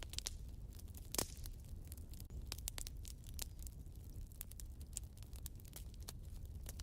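Wood fire burning in a fireplace, crackling with irregular sharp pops and snaps over a low steady rumble; one louder pop about a second in.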